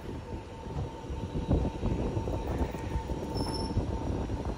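X'Trapolis electric suburban train rolling slowly along the platform as it comes in to terminate: a low rumble of wheels on rail with small knocks, and a thin steady squeal held throughout.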